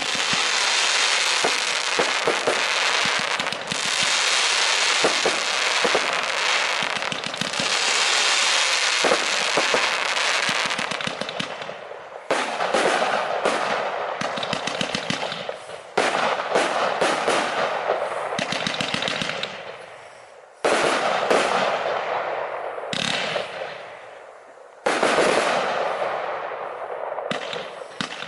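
Lesli Cryptex 121-shot, 25 mm fireworks battery (a consumer cake) firing, its shots and star bursts coming in a dense, continuous stream for the first twelve seconds or so. In the second half new volleys start sharply about every four seconds and fade away between them.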